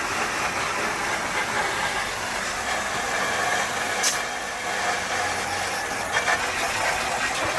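Water from a garden hose without a nozzle spraying steadily over a car's engine bay, a continuous hiss, with one sharp click about four seconds in.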